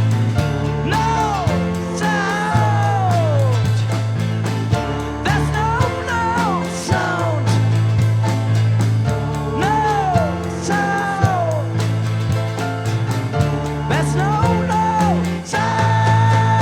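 Live rock band playing an instrumental passage: a lead melody that bends and glides in pitch over changing bass notes and a steady drum beat, settling into a long held note near the end.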